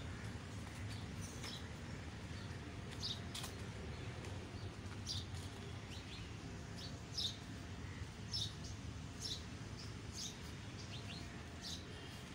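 Small birds chirping: short high chirps, roughly one a second, over a steady low background rumble.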